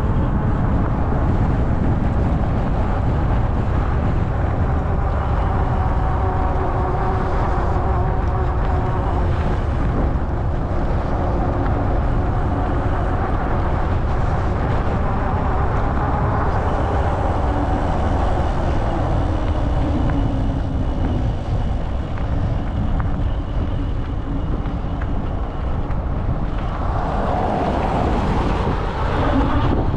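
Riding noise from an Ariel Rider Grizzly e-bike under way: a steady low rumble of wind buffeting the microphone and tyres rolling on the road.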